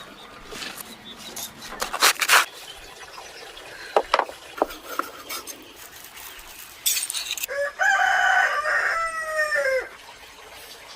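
A rooster crows once, about eight seconds in: one long call of about two seconds that drops in pitch at the end. Before it come scattered knocks and short bursts of clatter.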